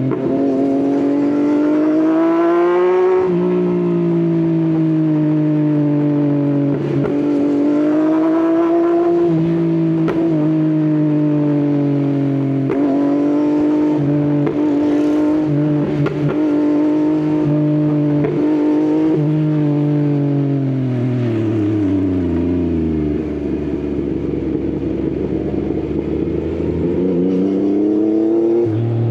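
Yamaha XSR900's three-cylinder engine through an Akrapovič exhaust while riding. The revs climb and drop at a gear change about three seconds in, rise and fall through the middle, then fall away to a low rumble as the bike slows, and pick up again near the end.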